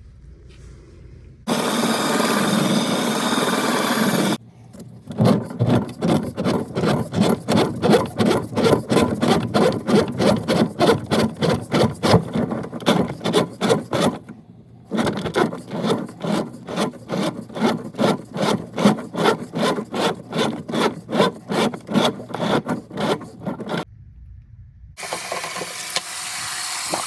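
Hand saw cutting in steady back-and-forth strokes, about three a second, in two long runs with a brief pause between them.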